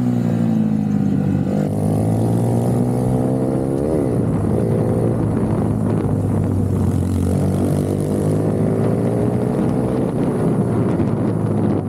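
A racing minibike's small engine heard from onboard, its pitch falling and rising with the throttle through the laps: a quick sharp rev up and down about four seconds in, then a long climb in revs that drops off near the end.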